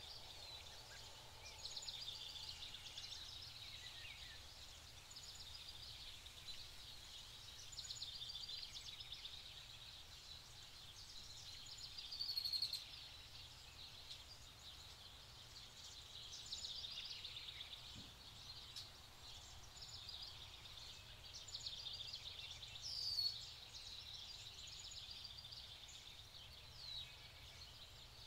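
Quiet forest ambience of many birds singing and trilling at once, high-pitched, with two louder short calls, one about halfway through and one near the end.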